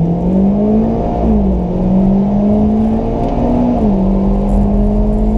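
Drag-racing cars accelerating hard down the strip. The engine pitch climbs and drops sharply with upshifts, once a little over a second in and again near four seconds.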